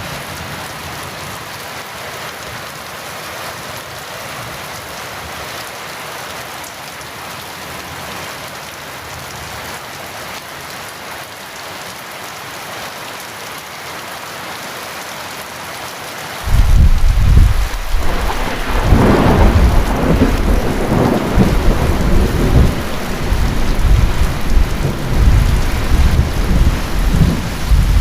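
Steady heavy rain, then a sudden loud thunderclap a little past halfway that goes on as rolling, rumbling thunder over the rain.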